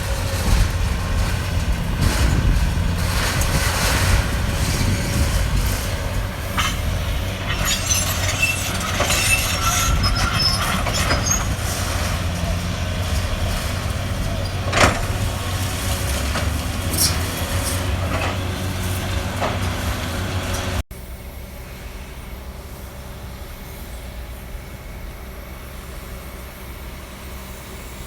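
Caterpillar 320D hydraulic excavator running steadily under demolition work, with scattered knocks and metallic squeals. About three-quarters through, the sound cuts suddenly to a quieter, even engine drone.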